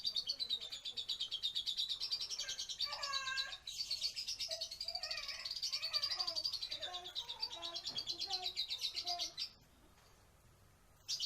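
Lovebird's long, rapid chattering song (ngekek): a fast, evenly pulsing run of high notes that goes on for about nine seconds and then stops abruptly. Lower chirps come in under it through the middle, and a short sharp sound follows near the end.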